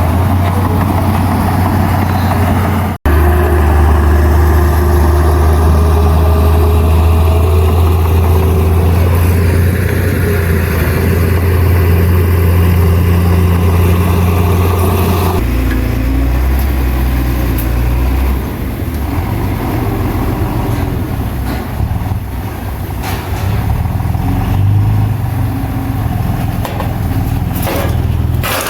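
Heavy diesel engine of earthmoving equipment running with a steady low drone. It cuts out for an instant about three seconds in. About halfway through it changes abruptly to a quieter, lower engine sound with scattered knocks.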